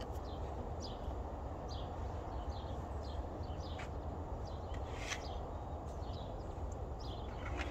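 Small birds chirping, many short falling notes scattered throughout, over a steady low rumble.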